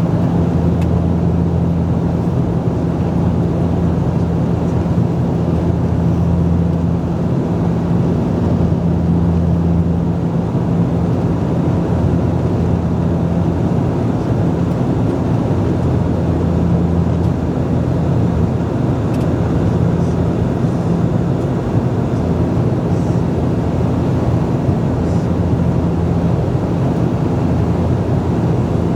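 Cabin noise inside a Bombardier Dash 8-Q400 in flight: the steady hum of its Pratt & Whitney Canada PW150A turboprops and propellers, with several low steady tones over a wide rushing noise.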